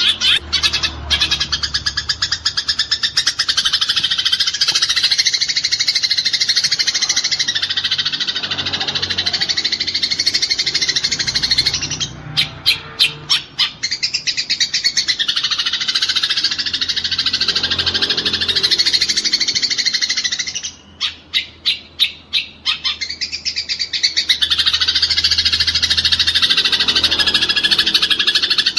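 Eurasian tree sparrows in a fighting chatter: a fast, dense run of chirps with no gaps. It breaks twice, about 12 and 21 seconds in, into a couple of seconds of separate sharp chirps before the rapid chatter resumes.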